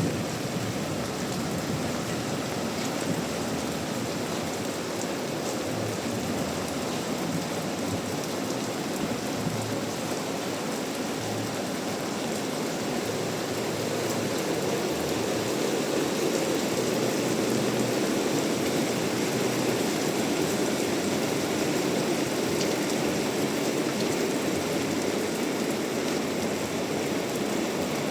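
Heavy rain falling steadily and pattering on surfaces, growing somewhat louder about halfway through.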